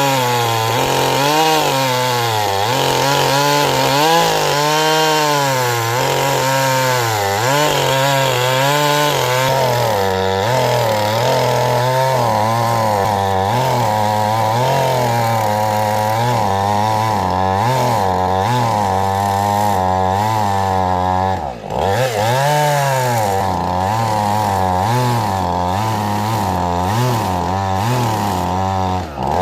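Husqvarna 450 two-stroke chainsaw cutting through oak, its engine pitch rising and falling constantly as it labours in the hardwood, with one sharp dip and recovery about two-thirds of the way through. The owner finds the job too much for the saw.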